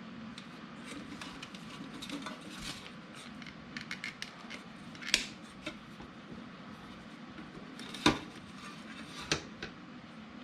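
Handling noise while measuring and marking duct pipe: scattered light clicks and taps with three sharper metallic clinks, one about halfway through and two close together near the end.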